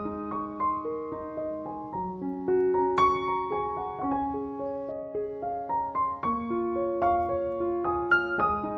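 Background piano music: a gentle melody of single struck notes over sustained lower notes.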